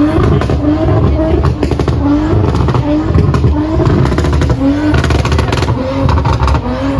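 A car engine revved again and again in short blips, each rev rising quickly in pitch, over a heavy low exhaust rumble, with bursts of sharp crackles from the exhaust.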